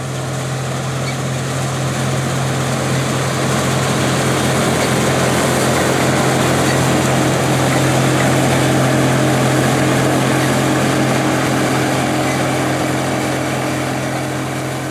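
Case International 1660 Axial-Flow combine harvesting soybeans: its Cummins 8.3-litre six-cylinder diesel runs steadily under load along with the threshing machinery. The sound grows gradually louder toward the middle and eases slightly near the end.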